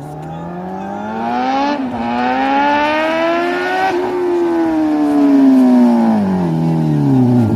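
A 1000cc naked sport motorcycle's engine accelerating hard. Its pitch climbs, dips briefly about two seconds in, climbs again to a peak about four seconds in, then falls steadily as the engine winds down.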